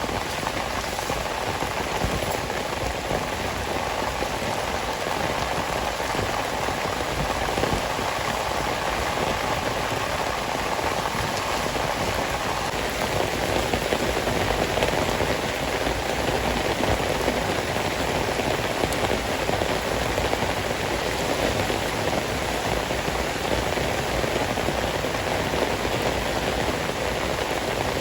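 Heavy rain falling steadily, a continuous even hiss of drops with no let-up.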